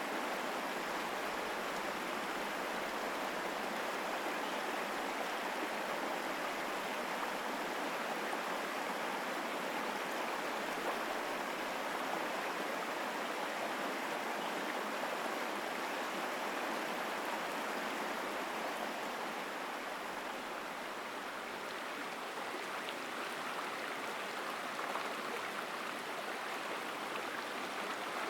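Mountain stream flowing strongly, a steady full rush of water.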